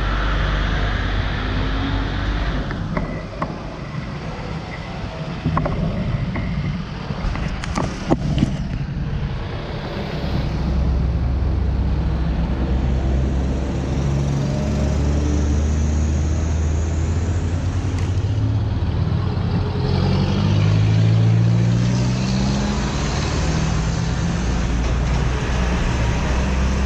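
Motor vehicle engines running amid road traffic, a steady low hum with engine pitch rising and falling several times in the second half. A few sharp clicks come about eight seconds in.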